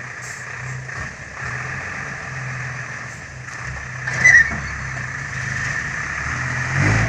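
Six-wheel dump truck's diesel engine running steadily at low revs, with one brief high squeal about four seconds in.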